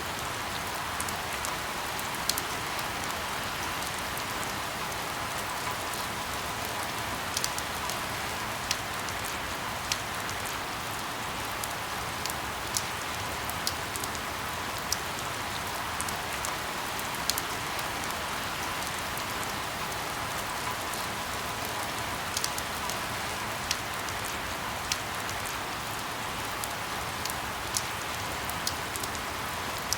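Steady rain falling, an even hiss with frequent sharp drip ticks scattered through it.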